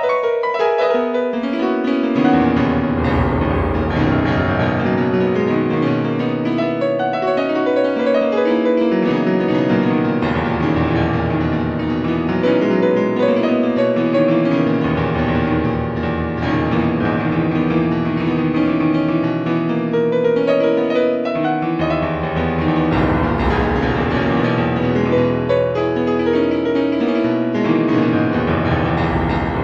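Piano music, notes played continuously over sustained low bass notes that change every few seconds.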